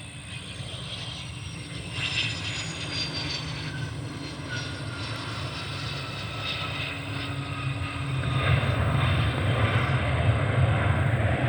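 Hawker business jet's turbofan engines passing, their whine sliding slowly down in pitch. A louder jet rumble builds over the last few seconds.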